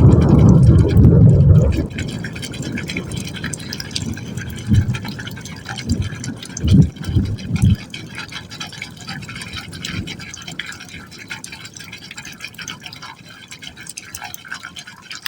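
Water falling into a pipe hole, splashing and gurgling. It is heavy and loud for the first two seconds, gives several separate low gulps between about four and eight seconds in, then settles to a lighter trickle.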